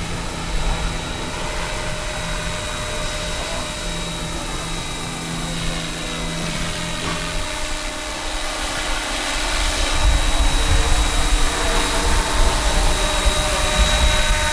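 Roban EC 665 Tiger scale RC helicopter in flight, its rotors and drive giving a steady whine over rotor noise. It grows louder, with more low rumble, from about two-thirds of the way in.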